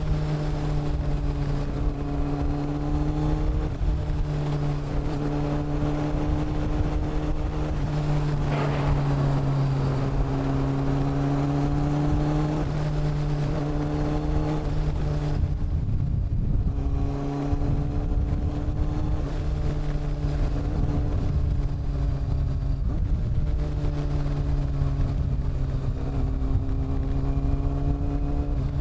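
Honda CB400 Super Four's inline-four engine and exhaust running at steady cruising revs, the pitch rising and dipping gently with the throttle. About halfway through the revs drop briefly as the throttle closes, then pick back up to a steady pull.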